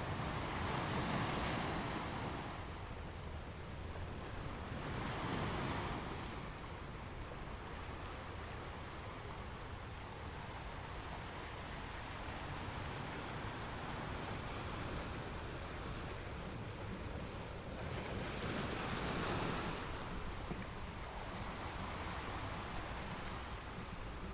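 Caribbean Sea surf: small waves breaking and washing on the beach, three louder breaks about a second in, about five seconds in and near nineteen seconds, over a steady wash, with a low rumble of wind on the microphone.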